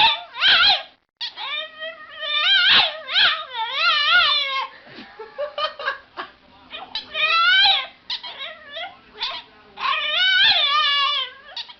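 Dog howling and yowling in a string of long, wavering cries that rise and fall in pitch, one after another with short breaks between.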